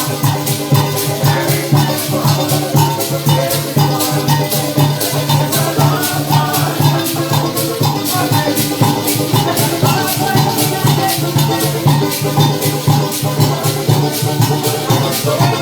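Live parang music from a band: maracas shake a quick, even rhythm over a pulsing bass line and melodic string parts.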